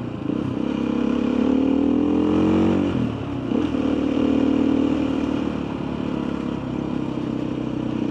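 Motorcycle engine pulling with rising pitch for about three seconds, dropping suddenly as with a gear change, then running at a steadier speed.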